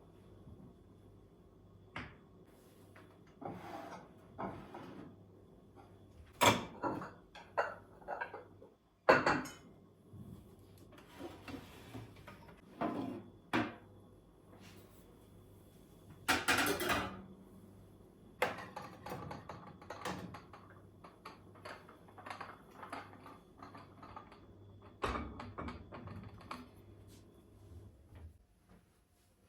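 Household items being handled during cleaning: scattered knocks, clicks and rustling, with sharper knocks about six and nine seconds in and a longer rustling burst past the halfway point.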